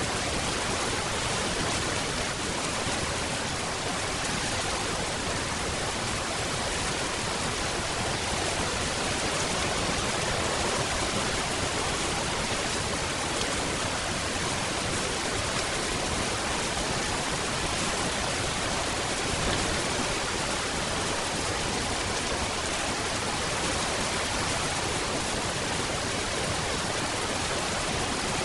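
Steady heavy rain: a dense, even hiss with no separate drops or thunder standing out.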